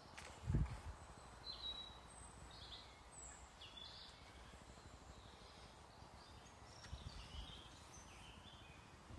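Small birds chirping faintly and intermittently with short high calls, over a low outdoor hiss. A low muffled thump about half a second in and another around seven seconds.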